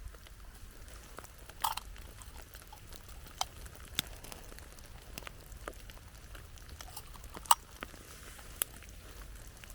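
Rain falling, with large drops striking a surface in scattered sharp taps about once a second over a faint steady hiss.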